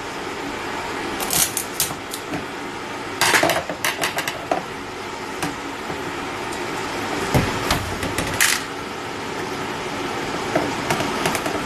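Small metal parts and tools clinking and clattering in short bursts while carburetor jets are sorted out and handled, over a steady background hum.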